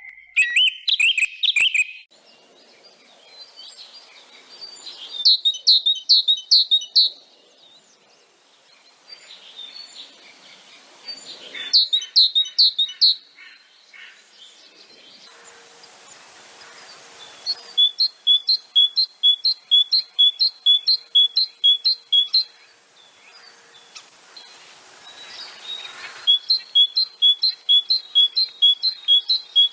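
Songbirds singing in separate bouts, each a quick run of repeated clear, high whistled notes. The two longer bouts in the second half repeat a two-note phrase about two or three times a second.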